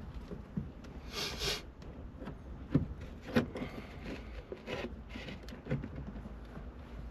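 Scattered light knocks and clicks with a brief scrape about a second in, from the new accelerator pedal and its throttle cable being handled and fitted into place; the two sharpest knocks come near the middle.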